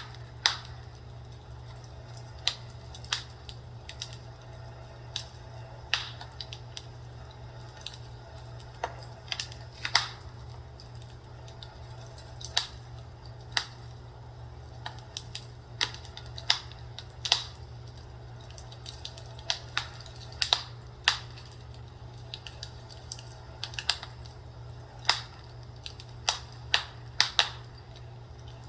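Fireplace crackling with a wood-burning sound: irregular sharp pops and snaps, one or two a second at uneven spacing, over a steady low hum.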